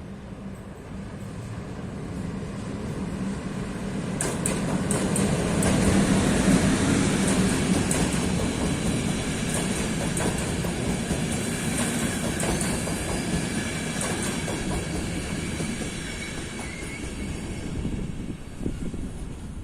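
A train passing on the rails, building to its loudest about six seconds in and then slowly fading, with wheels clacking over rail joints and thin wheel squeal later in the pass.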